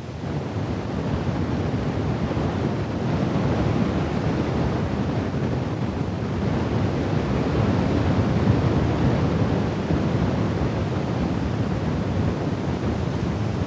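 Chevrolet 6.0 L V8 engine of a 2002 Silverado 2500 running with a knock, which the owner puts down to a rod or lifter rather than piston slap. It is a dense, steady noise that gets louder about half a second in.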